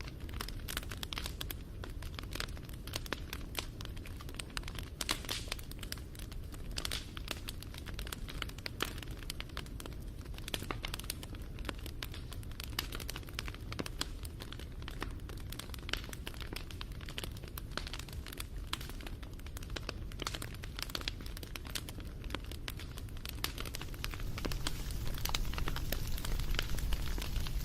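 Wood fire crackling: a steady stream of sharp, irregular pops and snaps over a low rumble of burning. The rumble grows louder near the end.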